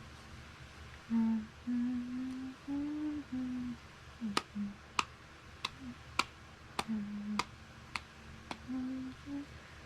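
A woman humming a slow tune in held notes, joined partway through by sharp clicks keeping a steady beat about every 0.6 seconds.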